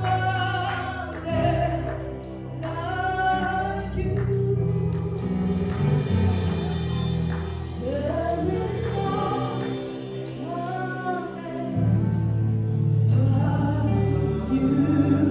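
Gospel worship song: voices singing phrases over steady, held instrumental backing.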